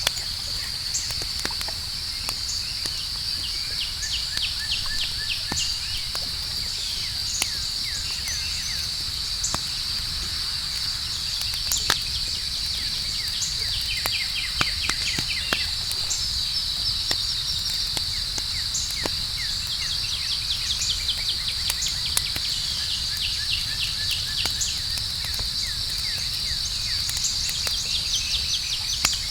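Campfire crackling with scattered sharp pops over a low rumble, set against a steady high-pitched chorus of crickets. Runs of quick chirps come and go several times.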